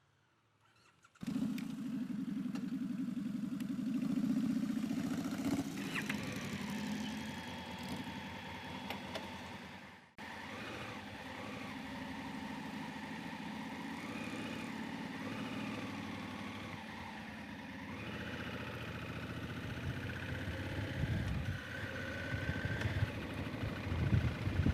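Motorcycle engine running, coming in abruptly about a second in after a moment of near silence. It breaks off for an instant near the middle and then runs on steadily, with rougher low rumbling near the end.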